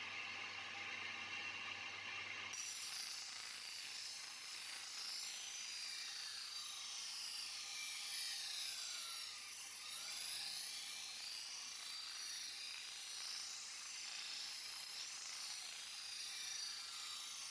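Steel knife blade being ground against a sharpening stone: a steady, high-pitched scraping hiss, with a change in the sound about two seconds in.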